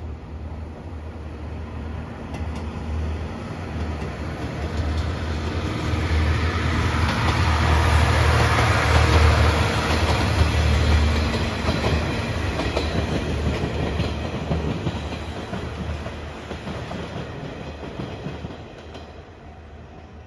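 The Seto-Ohashi Anpanman Torokko, a diesel railcar coupled to an open trolley car, passing by. Its engine hum and the clatter of its wheels on the rails grow louder to a peak about nine seconds in, then fade as it runs away.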